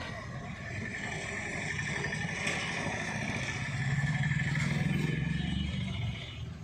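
A motor running steadily with a high whine, its low rumble growing louder for a couple of seconds past the middle, then easing.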